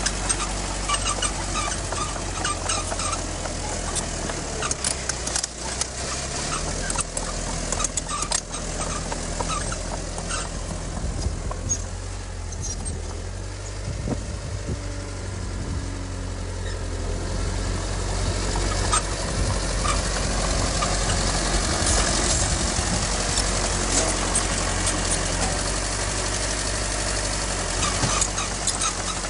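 Heavy diesel engine of earthmoving equipment running steadily, with scattered metallic clanks and knocks over the engine note.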